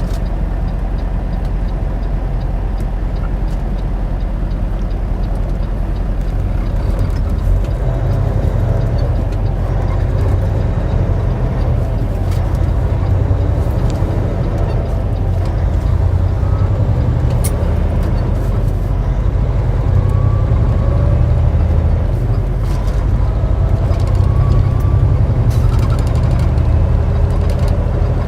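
Semi-truck's diesel engine and road noise heard from inside the cab while driving, a steady low rumble that grows somewhat louder about a third of the way in.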